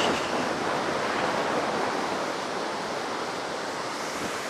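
Ocean surf from heavy post-typhoon waves breaking on a sandy beach, a steady rushing wash.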